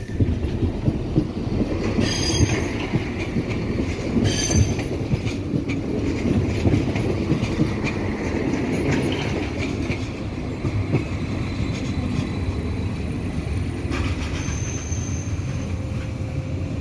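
Eurobahn Stadler FLIRT electric multiple unit, two units coupled, rolling past on the station tracks as a steady rumble. Short high wheel squeals come about two and four and a half seconds in, and a fainter one near the end.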